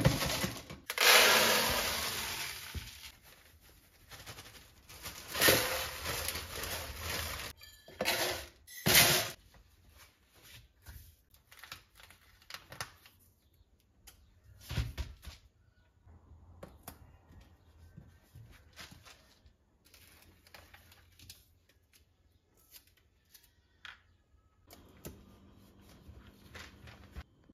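Food-storage containers and packaging being handled: rustling and scraping bursts through the first nine seconds or so, then scattered light clicks and taps.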